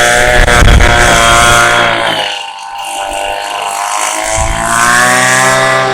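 Small gasoline engine running loud and steady, its speed dropping about two seconds in and climbing back up over the next few seconds.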